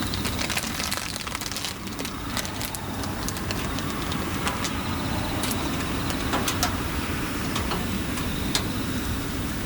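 Wood fire burning in a solotour assembly-type secondary-combustion camp wood stove: a steady rushing draft with frequent sharp crackles and pops.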